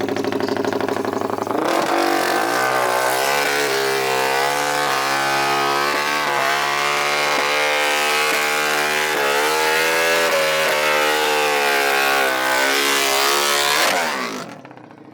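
A small off-road racing engine runs at full throttle, its pitch climbing and dipping briefly several times as it shifts up. It falls away sharply near the end.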